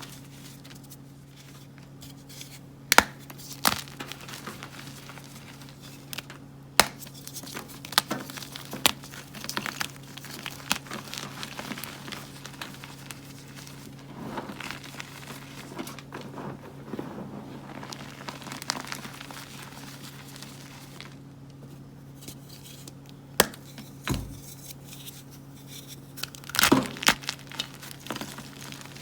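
Gym chalk blocks being crushed and crumbled by hand, with scattered sharp cracks as pieces snap and softer crumbling between them. A steady low hum runs underneath.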